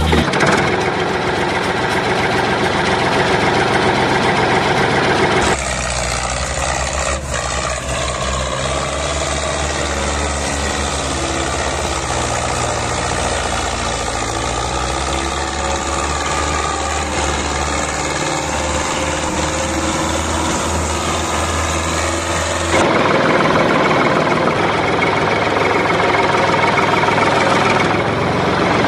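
A small motor running steadily on a DIY toy tractor model, with a constant drone. The sound changes abruptly twice, about 5 and 23 seconds in, at cuts between clips.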